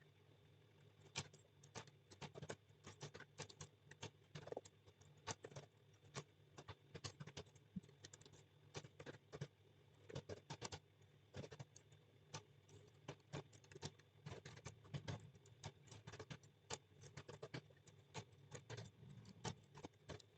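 Typing on a computer keyboard: quick, irregular keystroke clicks, several a second, over a faint steady low hum.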